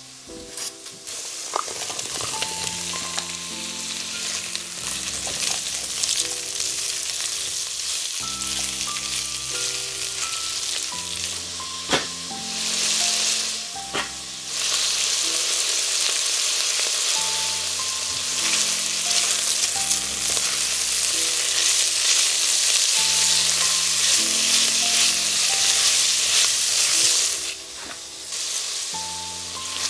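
Shallots and garlic sizzling in oil in a cast-iron pot, a steady hiss that dips briefly near the end, over soft background music of slow held notes. Two light knocks come about halfway through.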